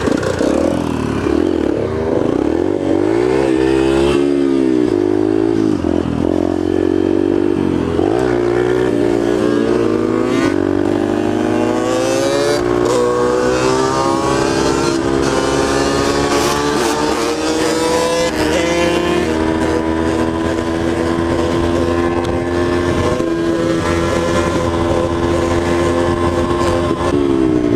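Yamaha TTR125 dirt bike's single-cylinder four-stroke engine accelerating through the gears, its pitch climbing and dropping back at each shift. It then settles into a steady, higher pitch while cruising.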